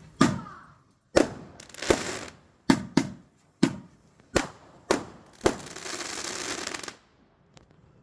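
Fireworks going off: about nine sharp bangs at irregular intervals, then a second and a half of dense crackling that stops abruptly.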